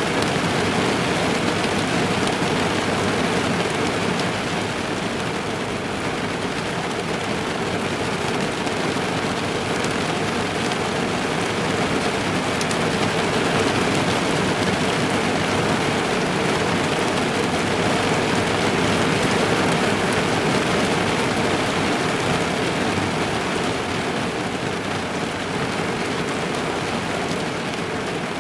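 Heavy rain drumming steadily on the roof and windows of a parked car, heard from inside the cabin.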